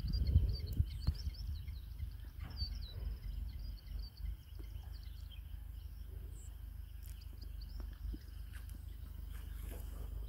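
Small birds chirping in quick, high runs, thickest in the first few seconds, over a low wind rumble on the microphone that gusts at the start.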